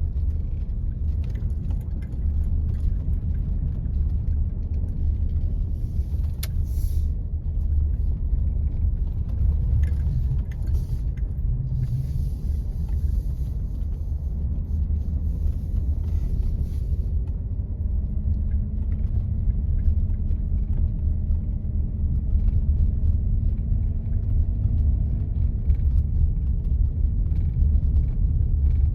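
Vehicle driving along snow-covered roads: a steady low rumble of engine and tyres, with scattered faint ticks.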